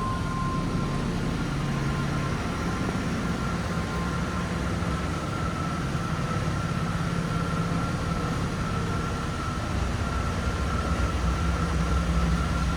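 The 1995 Chevrolet 1500's 4.3-litre V6 idling steadily: an even low rumble with a thin steady whine above it, the low end getting a little louder near the end.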